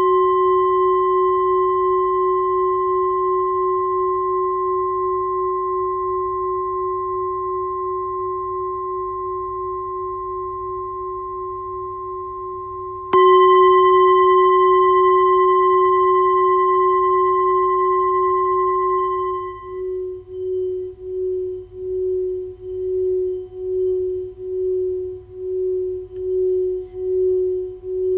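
A singing bowl ringing with a low fundamental and clear higher overtones, fading slowly after a strike. It is struck again about halfway through. In the last third the higher tones die away and the low tone swells and fades about once a second.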